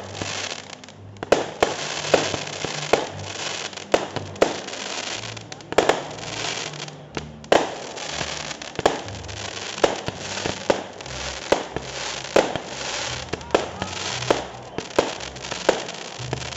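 Aerial fireworks going off: a continuous crackling, with sharp bangs about once or twice a second.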